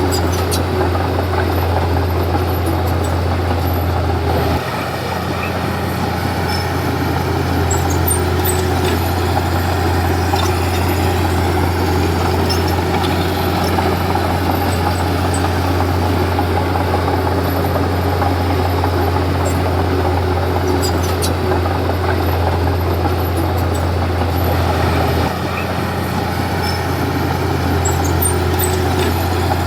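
Komatsu D31P bulldozer's diesel engine running steadily, its low note dipping briefly about four seconds in and again near the end, with faint high clinks now and then.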